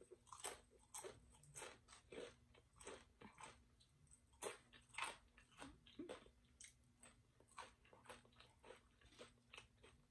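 Close-up chewing of tortilla chips: a run of soft, crisp crunches, about two a second.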